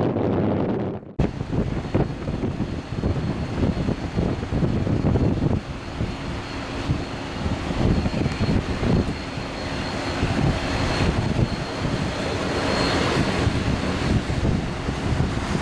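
Dash 8 Q400 turboprop running as it arrives, its engines and propellers giving a steady high whine with lower humming tones. Wind buffets the microphone. A short break about a second in marks an edit.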